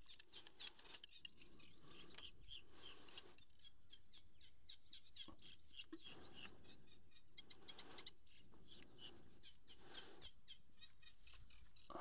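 Small birds chirping, with a quick run of sharp clicks in the first second or so.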